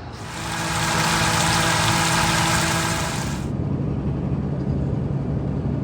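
Motor vehicle engine idling with a steady low hum. A loud hiss over it for the first three and a half seconds cuts off sharply.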